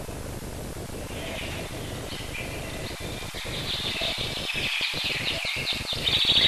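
Birds chirping, many quick short calls that start about a second in and grow busier and louder toward the end, over the steady hiss and hum of an old film soundtrack.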